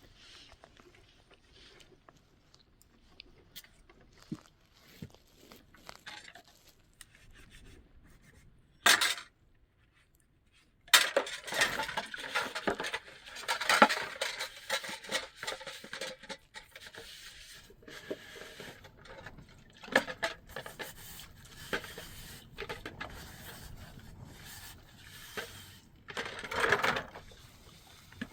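Dishes, pots and cutlery clinking and scraping as they are handled and washed by hand, in scattered knocks with a busier stretch of clatter after a short pause.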